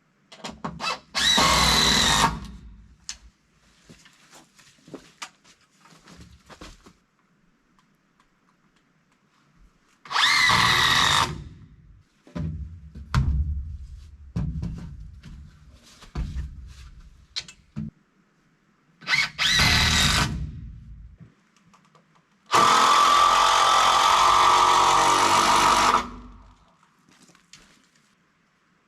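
Power drill driving screws into lumber in three short bursts, each spinning up with a rising whine, then one longer steady run of about three and a half seconds near the end. Knocks and clatter of boards being handled fall between the bursts.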